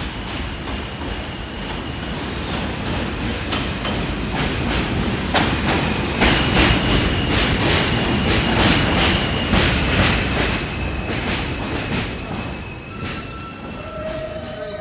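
New York City Subway J train running into the station. Its wheels click over the rail joints in a steady run, with a thin high wheel squeal over the rumble. It grows loudest through the middle and eases off, and near the end a steady humming tone comes in as it slows.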